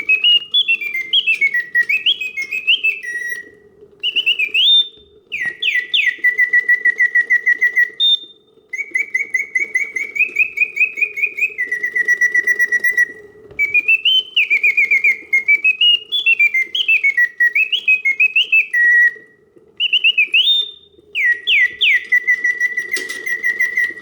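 Karl Griesbaum double singing bird cage automaton singing in continuous mode: its bellows-driven whistle pipes warbling birdsong with rising and falling oscillating notes and rapid trills. The song comes in phrases a few seconds long with brief pauses between them, over a faint steady hum.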